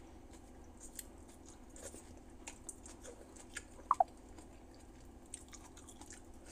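Close mouth sounds of a person chewing food: soft wet smacks and small clicks scattered throughout, with one louder short sound about four seconds in.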